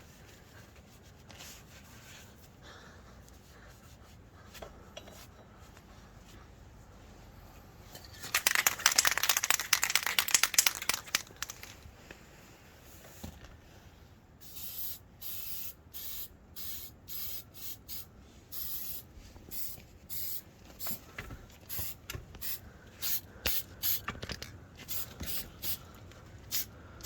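Aerosol can of black spray paint hissing onto a welded metal frame: one long spray of about three seconds, then a run of short spurts, about two a second.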